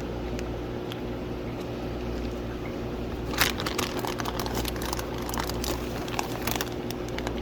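Plastic fish bags crinkling and rustling as they are handled, a run of crackles and clicks starting about three seconds in, over a steady low hum.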